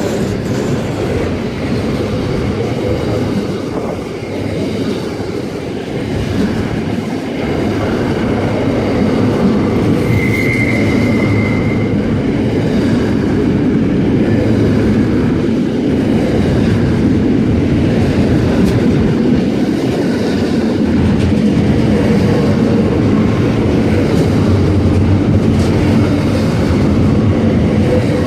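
Long freight train rolling past, wagon wheels clicking over rail joints with a steady rumble that grows a little louder about a third of the way in, and a brief high wheel squeal a few seconds later.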